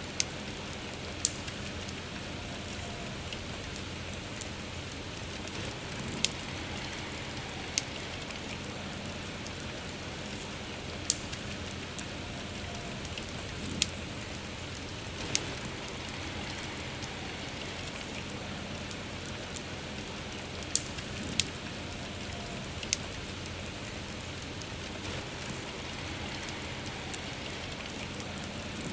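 Steady rain falling, with a wood campfire crackling and giving sharp pops at irregular moments, about eight across the stretch.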